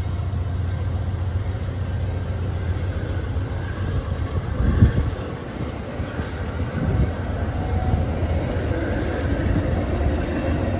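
Amtrak Cascades passenger train running by, a steady low rumble with a brief louder swell about five seconds in.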